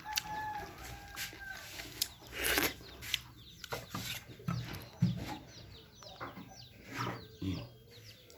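Chickens clucking, with a held call near the start and a few short low clucks later, while small birds chirp in quick falling notes and a few clicks sound.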